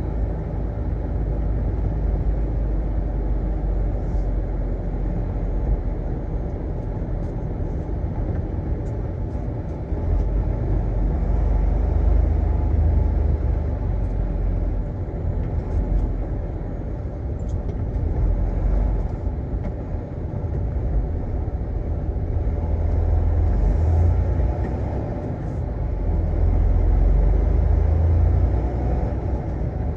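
Semi-truck on the road: a steady low rumble of engine and road noise that swells and eases gently.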